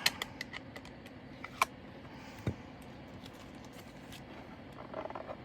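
Scattered light clicks and taps of small plastic diamond-painting drills and their storage containers being handled during the kit-down. There is one duller knock about two and a half seconds in.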